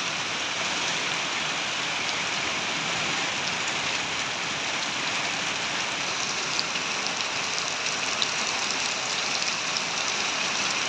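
Steady heavy rain hissing down on a road and roofs, with a few sharper drop ticks close by in the second half.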